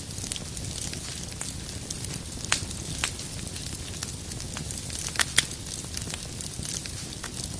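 Wood fire crackling in a fireplace: a steady low rumble of flames under scattered sharp pops, the loudest a quick pair about five seconds in.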